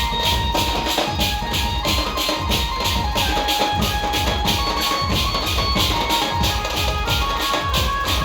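Indian pad band playing: a melody of short held notes over a steady, fast drum and percussion beat of about four strokes a second.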